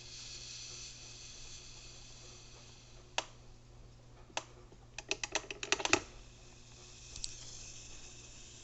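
Black & Decker drip coffee maker heating water through a cleaning cycle: a steady faint hiss with a few single clicks and a quick run of about ten sharp clicks or pops between five and six seconds in.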